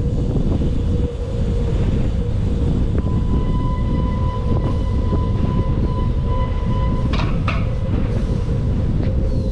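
Strong wind buffeting the microphone while riding a bicycle, a loud steady low rumble. A thin high whine runs for a few seconds in the middle, and a couple of brief rattles come near the end.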